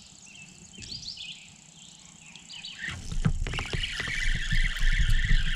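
Short bird chirps and insects trilling outdoors. About three seconds in, low rumbling and knocks start up under a steady high buzzing.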